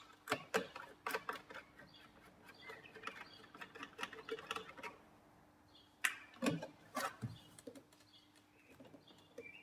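Scattered light clicks and knocks from hands and tools working on a VW T4's door trim parts, louder and closer together a little after six seconds, over a faint steady hum.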